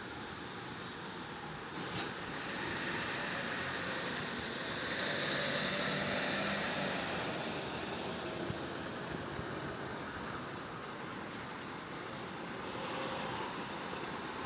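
Road traffic noise: a vehicle passes with a hiss that swells about two seconds in, peaks in the middle and fades, and a second smaller swell comes near the end.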